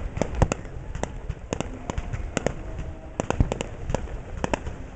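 Aerial fireworks shells bursting in a rapid, irregular string of sharp bangs and pops, about three a second, with the loudest bang near the start.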